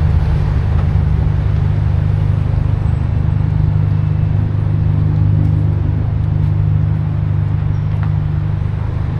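City street traffic noise: a loud, steady low rumble with an even wash of road sound above it.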